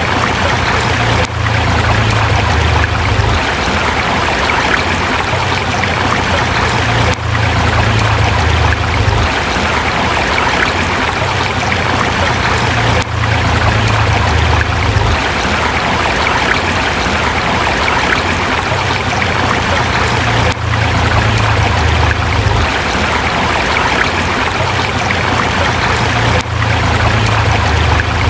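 Forest river flowing over rocks: a steady, loud rush of water with a low rumble that swells and fades.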